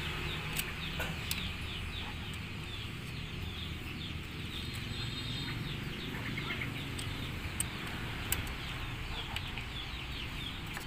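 Birds chirping, a dense chatter of many short, high, falling chirps, over a low steady hum.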